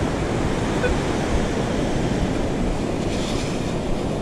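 Steady ocean surf washing, with wind buffeting the microphone.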